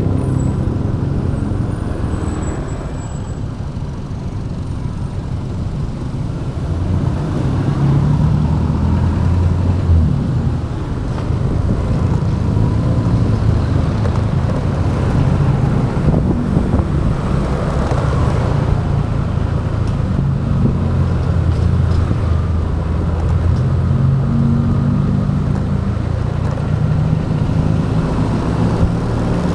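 Motorbike engine running under way, heard from the rider's action camera, its pitch shifting up and down with speed, over wind and road noise. It eases off a few seconds in, then pulls louder again.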